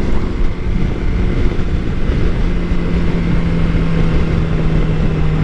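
Motorcycle at highway speed, heard from the rider's microphone: heavy wind rush with the engine running underneath, and a steady low hum that sets in about two seconds in.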